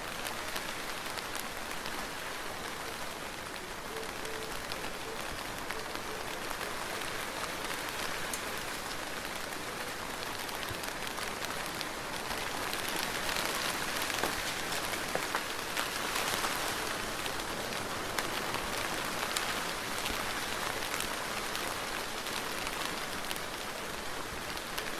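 Soft, steady rain falling on a surface, a dense hiss full of fine drop ticks that swells a little heavier about halfway through.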